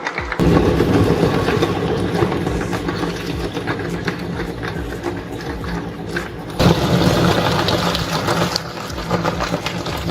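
Electric meat grinder running with a steady motor hum. It starts up about half a second in and gets louder again about two-thirds of the way through.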